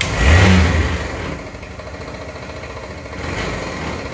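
Yamaha Jog scooter's four-stroke engine kick-started with its drive disconnected. It catches at once, revs up briefly, then settles into a steady idle. It still has the abnormal rattle that is traced to a stretched, slack timing chain knocking inside the engine.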